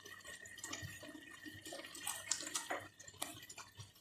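Butter chicken sauce bubbling in a cooking pan, with scattered small pops and wet ticks. A faint steady high tone runs underneath and stops about three seconds in.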